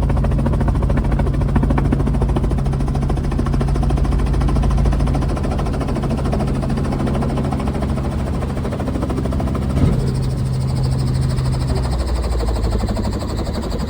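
Helicopter engine and rotor running with a steady low drone; its tone shifts about twelve seconds in, and there is a brief knock near the ten-second mark.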